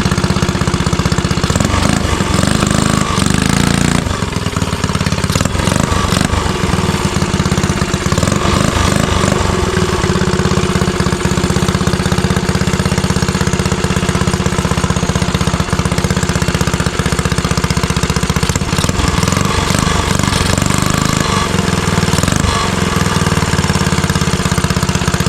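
Motovox mini bike's small single-cylinder engine running steadily at a fast idle with a slight stutter, which the owner puts down to old gas in the carburetor.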